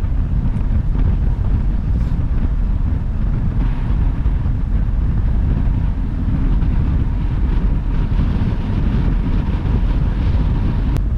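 Steady road and wind noise of a car cruising at highway speed, a low rumble with no breaks.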